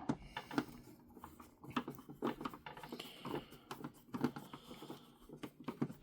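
Irregular small clicks and scrapes of a small screwdriver turning screws out of a plastic toy car's base, with the plastic body knocking as it is handled.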